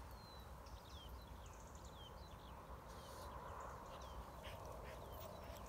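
Faint bird calls: short high chirps that fall in pitch, repeated every half second or so, over a low rumble, with a few soft clicks near the end.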